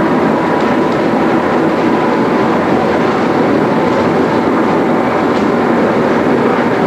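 MI79 electric multiple unit running at speed, heard from the driver's cab: a loud, steady rumble of wheels on rail and running gear.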